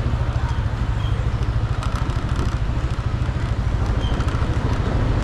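Motor scooter riding along, its small engine running steadily under a heavy, rapidly pulsing low rumble.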